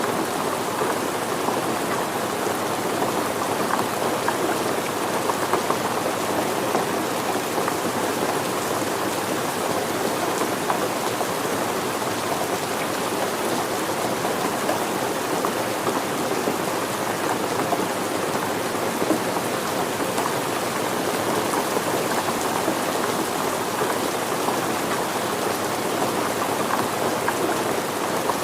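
Steady rain falling and pattering on surfaces, an even wash of many small drops with no change in strength.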